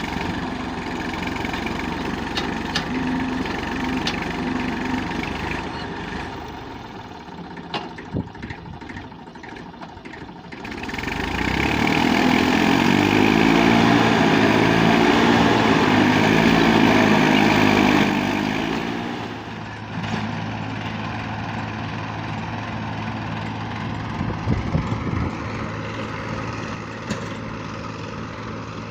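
Massey Ferguson 35 tractor engine running, revving hard for about eight seconds in the middle, then dropping back to a steadier, lower run. This is the tractor straining to pull out of the mud.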